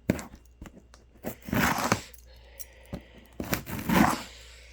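Packing tape tearing and cardboard scraping as a cardboard box is opened, in a few separate rasping bursts with small clicks between them.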